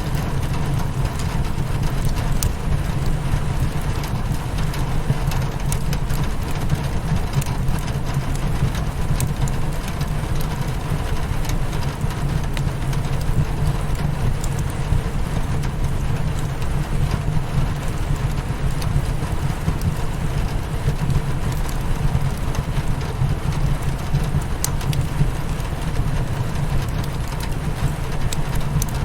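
Steady rain hitting a windowpane with a crackling fireplace, a dense even rush under scattered sharp pops.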